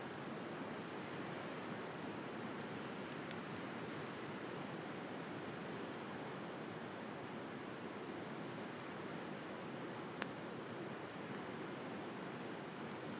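Wood bonfire crackling with scattered small pops over the steady wash of the sea; one sharper pop about ten seconds in.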